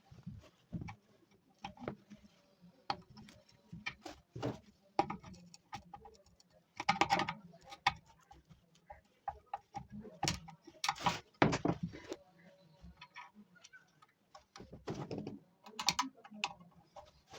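Irregular small clicks and knocks, with a few louder clattering bursts about seven and eleven seconds in.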